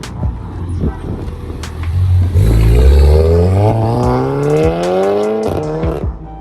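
Renault Mégane RS's 1.8-litre turbocharged four-cylinder engine accelerating hard, its pitch rising steadily for about three seconds before it cuts off suddenly, with a few sharp cracks near the end.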